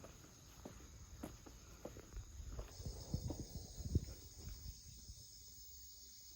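Footsteps, a soft knock about every half second, fading out halfway through, while a steady high chirring of insects swells up about three seconds in.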